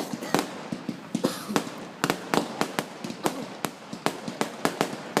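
Fireworks going off in a rapid, irregular series of sharp bangs and cracks, about three or four a second, with a short hiss about a second in.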